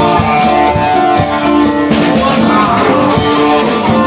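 Band music: an instrumental passage of a Thai phleng lae song, sustained melody notes over a steady beat with regular shaker ticks.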